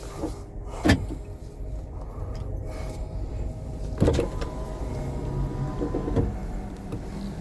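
A vehicle's engine running, its low note stepping up in pitch about two-thirds through, with two sharp knocks, about a second in and about four seconds in.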